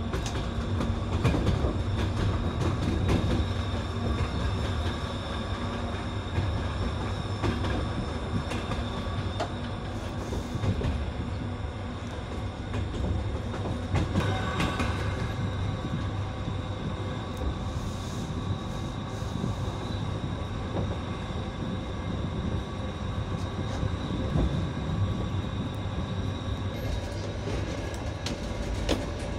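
Passenger train running under power, heard from inside a carriage: a steady rumble of wheels on rails with light clickety-clack. It carries the sound of the TEP70 diesel locomotive accelerating up the grade.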